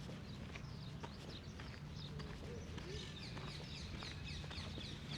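Outdoor park ambience: small birds chirping, with a run of quick high chirps from about three seconds in, over a steady low hum and faint footsteps.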